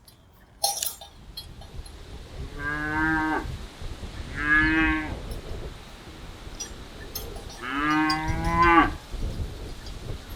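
Cattle mooing: three separate drawn-out calls, the last one the longest, after a single sharp knock a little over half a second in.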